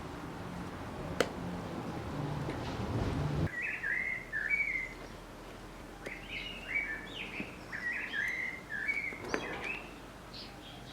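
A small bird chirping in quick, repeated twittering phrases, starting about four seconds in. Before that a low hum with one sharp click runs, then cuts off abruptly.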